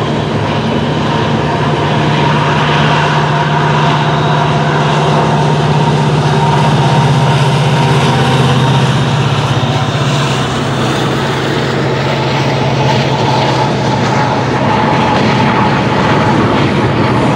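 Double-stack container train rolling past, its steel wheels rumbling steadily on the rails. A Norfolk Southern mid-train distributed-power diesel locomotive adds a low engine drone that is strongest in the first half, drops a little in pitch as the unit goes by about midway, then fades under the wheel noise.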